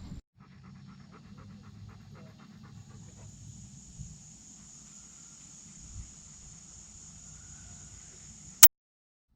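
Airedale terrier panting in quick, even breaths that fade after two or three seconds, over a steady faint hiss. Near the end a single sharp click, the loudest sound, and then the sound cuts out.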